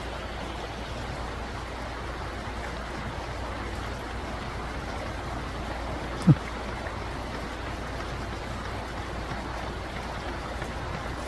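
Mountain stream flowing with a steady rushing sound. A single brief thump about six seconds in.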